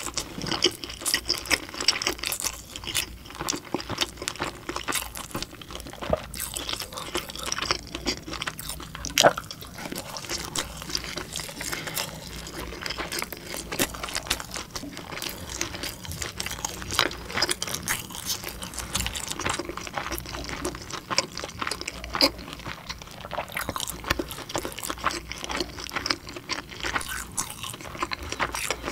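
A person chewing and eating soft dumplings: irregular mouth sounds with many small clicks and smacks, and one louder click about nine seconds in.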